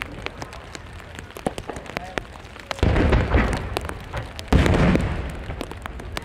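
Fireworks shells bursting: two heavy booms, about three seconds in and again a second and a half later, each trailing off in a long rumble, with scattered sharp crackles throughout.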